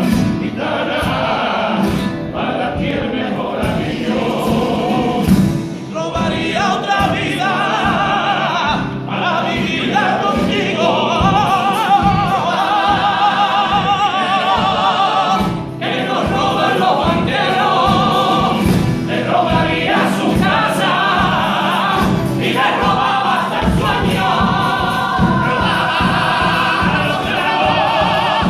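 A group of voices singing together in chorus, with vibrato, over a regular rhythmic accompaniment: part of a live popurrí of Spanish songs.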